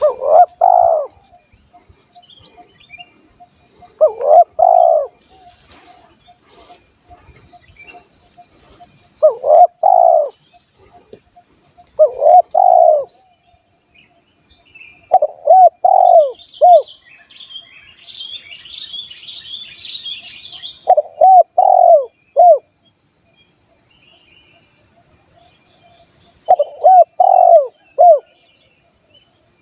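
Spotted dove (tekukur) cooing: seven short phrases of two to four notes each, repeated every few seconds, over a steady high insect trill. Brief high twittering comes in about two-thirds of the way through.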